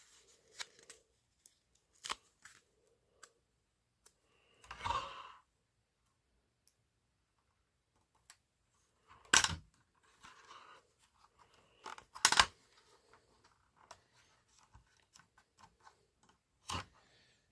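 Small plastic toy parts and a sticker sheet being handled: scattered light clicks and taps, a short rustle about five seconds in, and two louder sharp clicks later on.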